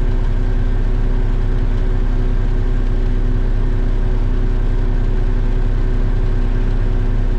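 Concrete mixer truck's diesel engine running steadily at idle, an unchanging low hum with a few constant tones.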